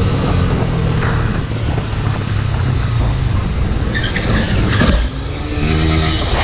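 Motor vehicle engines running with steady road and traffic noise, with a few short sharper noises about two-thirds of the way through.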